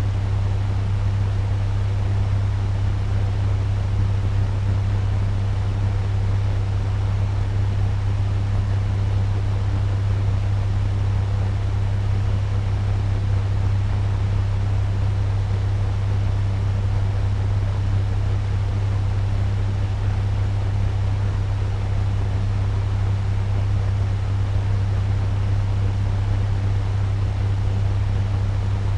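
Turbo fan running steadily: an even rush of air over a deep, constant hum.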